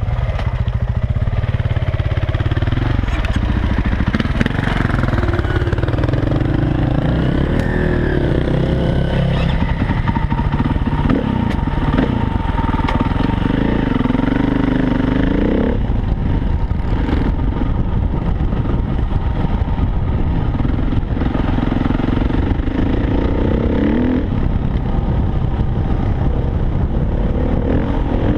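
Dirt bike engine running under load as the bike is ridden over rough trail, its pitch rising and falling again and again with the throttle.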